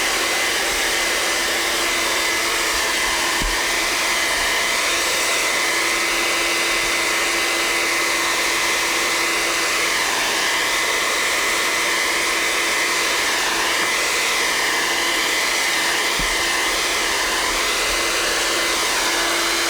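A hand-held hair dryer blowing steadily, used to dry the contact cement on a boot; its even rush of air carries a steady motor whine. It switches off right at the end.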